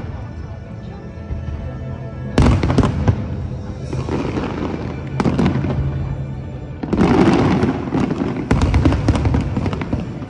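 Aerial fireworks bursting in the sky: four loud bangs a second or two apart, each trailing off in crackle and rumble.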